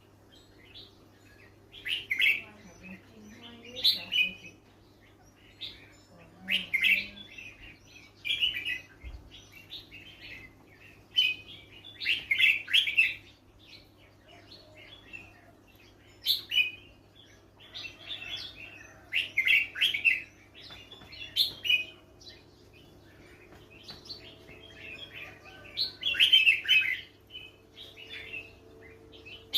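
A bird calling in short bursts of quick, high chirps, one burst every second or two. A faint steady low hum runs underneath.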